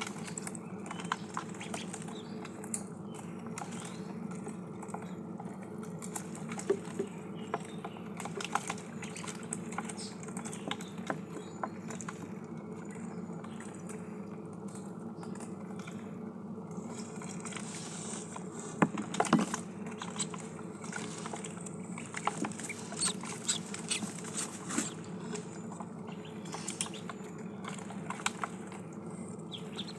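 Ducklings feeding: irregular clicks and taps of their bills pecking at food and dabbling in a dish, over a steady low hum.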